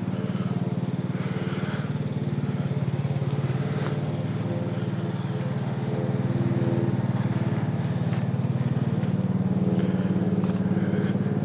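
An engine running steadily with a rapid, even putter, growing a little louder about halfway through.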